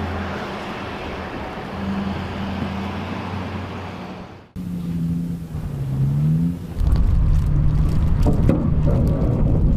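A vehicle engine hums steadily, then stops at a sudden cut about halfway through. After it, an engine's pitch rises and falls, and near the end a loud low rumble sets in, with wind buffeting the microphone.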